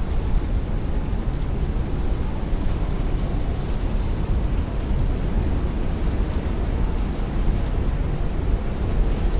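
Heavy rain beating on a window with strong wind, a steady dense rush with most of its weight in a deep low rumble.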